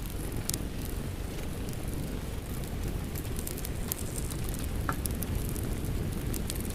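Wood fire crackling in a fireplace, with scattered sharp pops and snaps over a steady low rush of rain.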